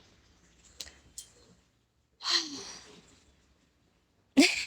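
A woman's short breathy sigh with a falling pitch, a little over two seconds in, after a couple of faint clicks; a voice starts loudly near the end.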